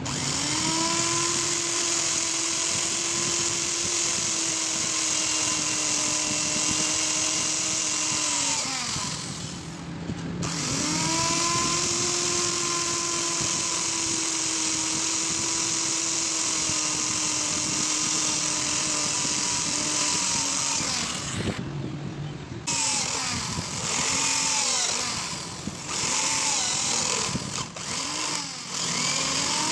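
A handheld electric power tool's motor runs up to speed with a steady whine and a strong hiss, winds down about nine seconds in, runs again from about eleven to twenty-one seconds, then is switched on and off in several short bursts.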